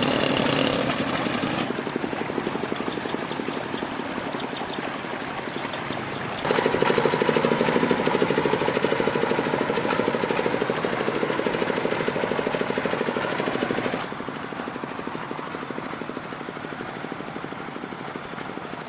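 Farm tricycle truck's engine running with a fast, even beat, getting abruptly louder about six seconds in and quieter again about fourteen seconds in.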